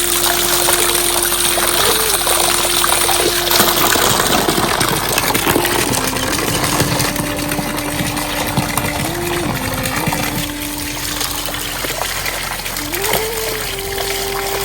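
Heavy rain falling, with water pouring and trickling. Over it runs a slow melody of long held notes that slide up or down a step every few seconds.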